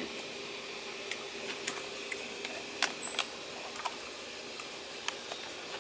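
Light, irregular clicks and crinkles of a spoon stirring freeze-dried food in its foil pouch, over a faint steady hum.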